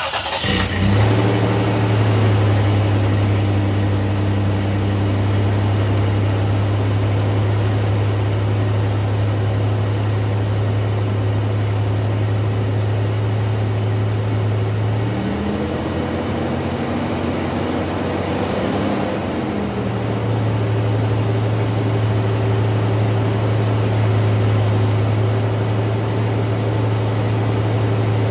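A 1995 Toyota 4Runner's engine is cold-started. It catches right at the start with a short burst of noise, then idles steadily. About fifteen seconds in, the engine speed rises gently for a few seconds and then settles back to idle.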